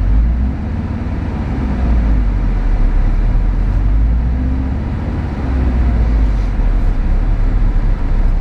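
Car engine idling roughly shortly after a cold start, its idle swelling and sagging unevenly, the rough idle the owner is trying to show.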